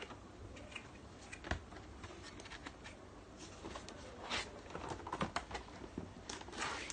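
Cardboard box and packaging being handled and opened by hand: scattered light clicks, taps and short rustles, busier in the second half.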